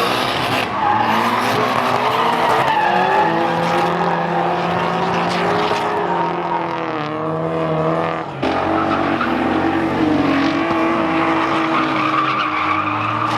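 Drift cars sliding with their engines revving hard and their tyres squealing, over a dense hiss of tyre noise. The engine pitch rises and falls with the throttle, and the sound drops briefly about eight seconds in.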